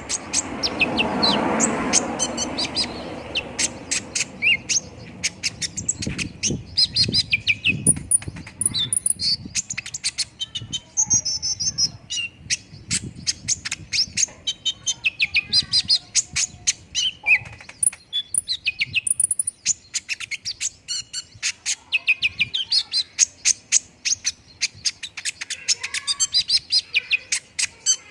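Konin sunbird singing a fast, continuous song of sharp, high chirps and rattling trills, with a brief rush of noise in the first couple of seconds.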